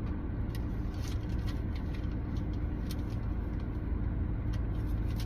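Steady low vehicle rumble with a faint constant hum, and scattered light clicks and rustles.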